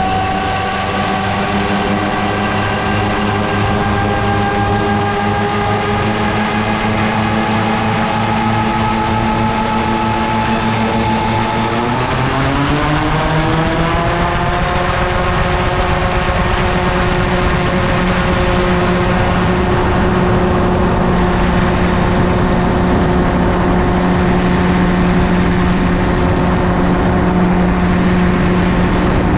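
MTO Sport gyroplane's engine and pusher propeller running steadily in flight. The pitch creeps up slowly, then rises quickly about twelve seconds in as power is added, and holds at the higher pitch.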